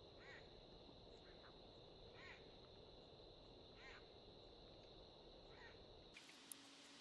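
A faint bird call repeated four times, about every one and a half to two seconds, over a steady high-pitched tone and a low hum of outdoor ambience. The background changes abruptly near the end.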